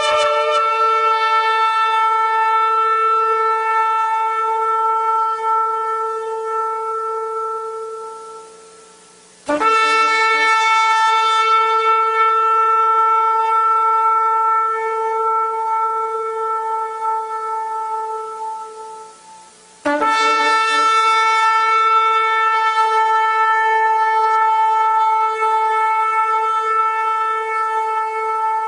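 A shofar sounding three long, steady blasts held on one note, each about ten seconds, fading at the end before the next starts abruptly.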